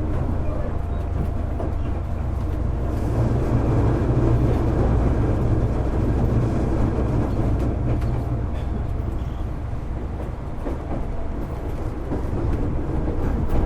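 JR East 205 series electric train car with an externally ventilated MT61 traction motor, running at a steady speed: a continuous low rumble of wheels and running gear with a steady motor hum, heard from inside the car.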